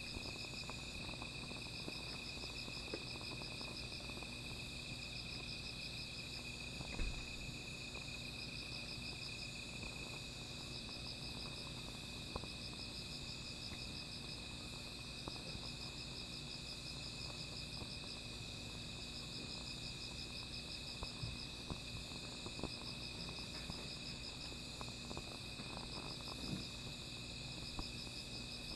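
Night insects calling: one steady high trill, with another insect's pulsing chirps coming in repeated spells of a second or two. Faint scattered crackles from a small fire, with one louder pop about seven seconds in.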